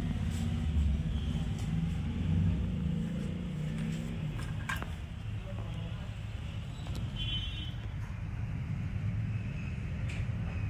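Hero Splendor's single-cylinder four-stroke engine idling, a steady low rumble.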